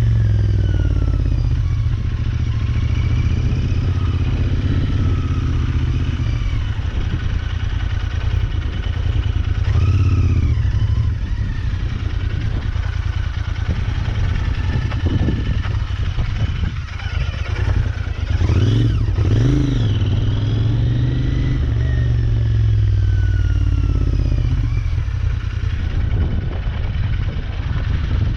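Royal Enfield Interceptor 650's parallel-twin engine running at low speed, its revs rising and falling over and over, with brief revs up about ten seconds in and again near the middle.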